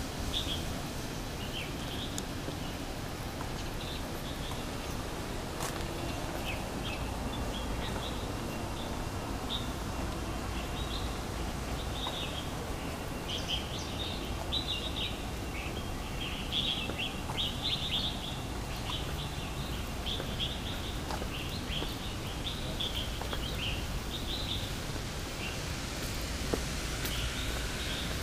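Birds chirping repeatedly in quick short calls over a steady low background noise.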